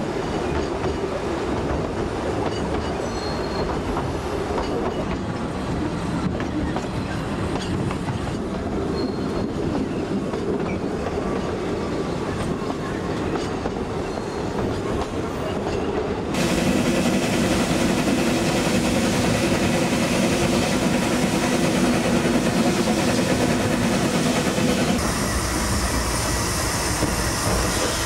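Narrow-gauge steam-hauled goods train rolling along: a steady rumble and clatter of wheels over the rails. About two-thirds of the way through it turns louder, with a steady ringing drone, and it changes again near the end.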